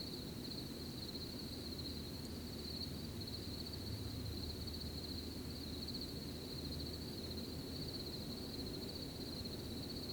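Crickets chirping in a continuous, even high trill, over a low, steady background rumble.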